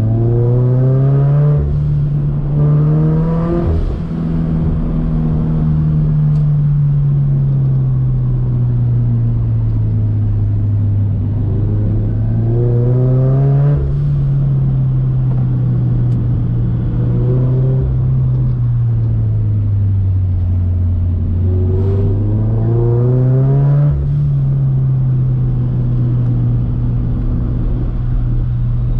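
Turbocharged Scion FR-S's 2.0-litre flat-four engine under load, its revs climbing quickly four times and easing slowly back down after each rise.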